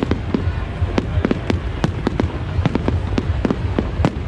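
Fireworks display: a rapid, irregular run of sharp bangs and cracks, several a second, over a continuous low rumble.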